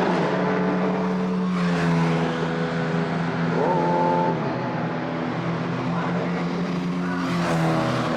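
Race car engines running on a circuit, several engine notes overlapping and held at steady revs. They shift in pitch as the cars change speed, with one brief rise and fall in pitch a little before halfway.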